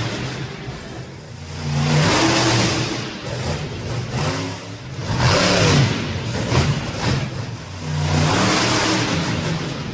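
Monster truck engine revving hard in three surges of throttle, its pitch rising and falling between them.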